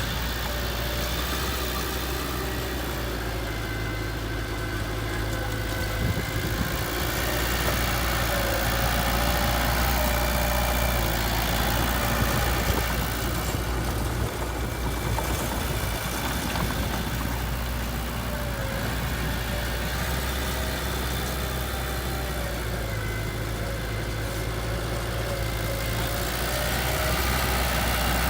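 Heavy-equipment diesel engine running steadily at low speed, its level swelling slightly about a third of the way in and again near the end.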